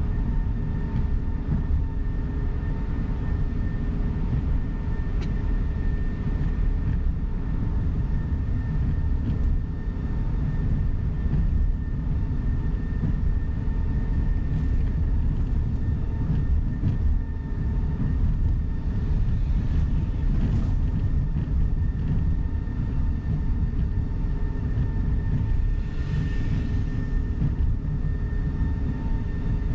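Inside a tour coach bus on the move: a steady, heavy rumble of engine and road noise, with a faint, even whine running under it.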